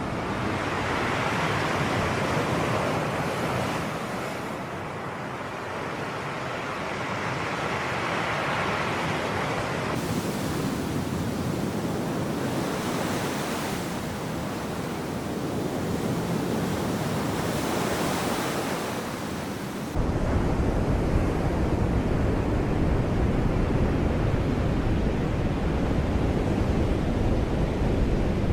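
Sea waves washing in slow swells, each rising and falling over a few seconds, with wind buffeting the microphone. About twenty seconds in, the sound changes abruptly to a steadier, deeper rumble of surf and wind.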